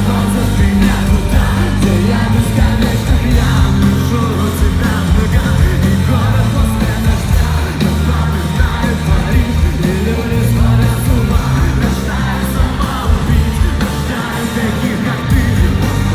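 Live rock band playing a song, with singing over the band.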